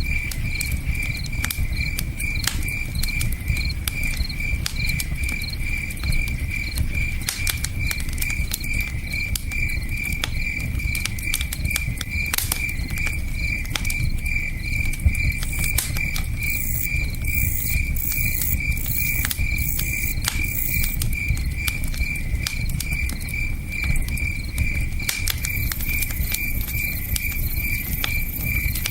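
Campfire crackling with scattered sharp pops, over a cricket chirping steadily at about three or four chirps a second and the low, steady rush of a river.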